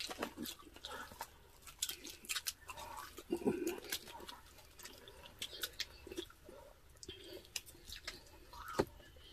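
People chewing crispy roast pork (lechon) with their mouths close to the microphone, and tearing the skin and meat apart by hand: irregular small crunches, smacks and crackles.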